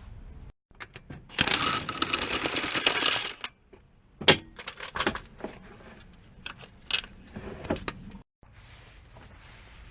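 Metal tools and parts handled during a car clutch job: a dense metallic rattle for about two seconds, then a few separate sharp clinks of metal on metal.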